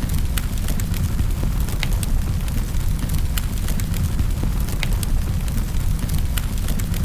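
Wood fire burning in a fireplace: a steady low rumble of the flames with sharp crackles and pops every second or so.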